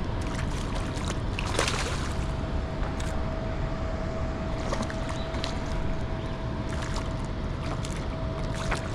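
Steady rushing noise of wind and water at the lakeside, heaviest in the low end, with a faint constant hum and a few brief knocks or splashes.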